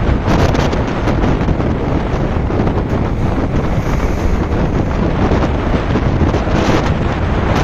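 Strong wind buffeting the microphone over the steady noise of a rough sea, with waves breaking.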